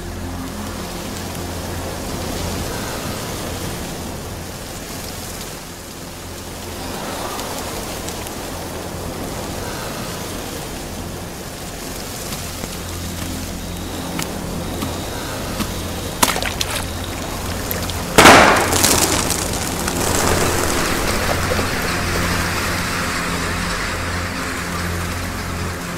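Film trailer soundtrack: a low sustained music drone under a steady rain-like hiss, with a few sharp clicks about 16 seconds in and a loud crash about 18 seconds in that fades away over a couple of seconds.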